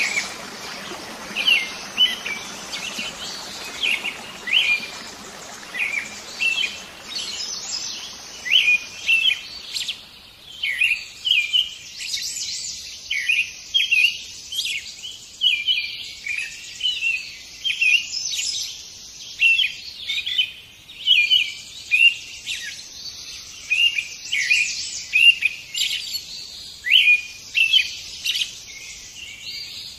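Birds chirping: a dense, unbroken run of short, high chirps, several a second.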